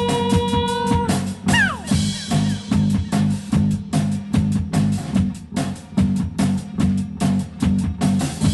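Post-punk band playing live on bass guitar and drum kit. A held sung note ends about a second in, followed by a falling slide, then the bass and drums carry on in a steady beat.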